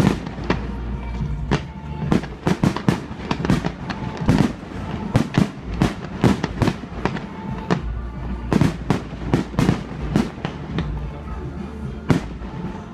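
Fireworks display: rapid volleys of bangs from aerial shells launching and bursting, in two dense clusters separated by a short lull, thinning to a single loud bang near the end.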